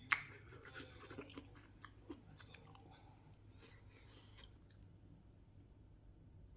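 Close-up chewing of kongnamul bulgogi, crunchy mouthfuls of bean sprouts and pork, with a sharp click just after the start. The eating sounds stop about two-thirds of the way through.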